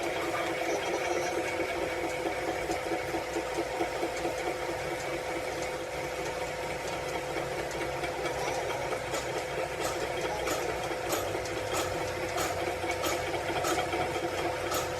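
A machine running steadily with a fast, even rattle. From about nine seconds in, sharp ticks come roughly every half second.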